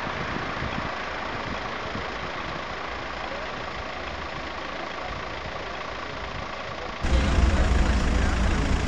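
Steady hiss of street background, then about seven seconds in a car engine idling starts in: a louder, low, steady rumble.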